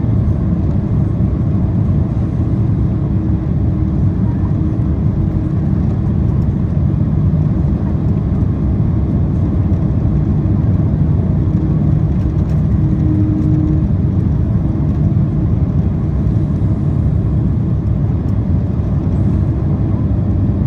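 Steady cabin roar of a Boeing 767-400ER on final approach: engine and airflow noise heard from inside the passenger cabin, a deep, even rumble with a faint steady hum over it.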